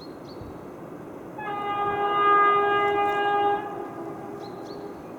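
Electric locomotive's horn sounding one long blast of about two seconds, a single steady tone: the Rp1 "attention" warning signal of Polish railways.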